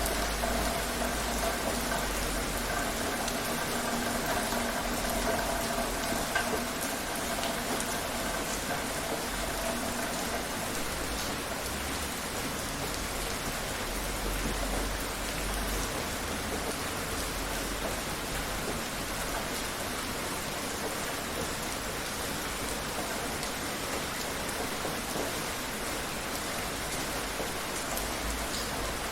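Steady heavy rain falling, a dense even hiss of drops. A faint steady tone sits underneath for about the first ten seconds, then fades out.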